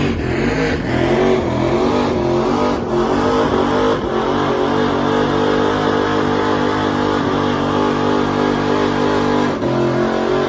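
A car engine running at high revs, held at a steady pitch for several seconds, with a brief dip in revs near the end.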